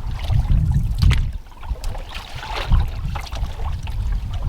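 Canoe paddle strokes splashing and water trickling off the blade, with wind rumbling on the microphone.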